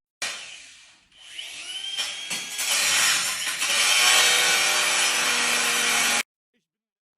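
A power tool cutting ceramic tile: the motor winds up with a rising whine, then settles into a harsh, steady grinding as the blade runs through the tile. It stops abruptly near the end.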